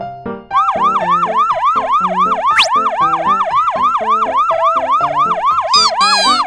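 A fast yelping siren, rising and falling about five times a second, over a bouncy children's music track. A quick upward whistle comes in the middle and a short falling sound effect near the end.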